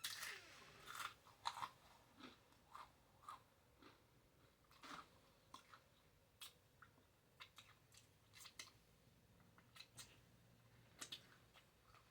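Close-up chewing of a bacon cheeseburger: soft, wet mouth clicks and crackles, loudest in the first second or so and then scattered and quieter.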